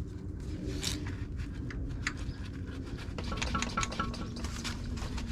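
A wrench working at a seized brake bleeder on a banjo fitting: scattered small metal clicks and ticks, with a short squeak about three and a half seconds in, over a steady low hum.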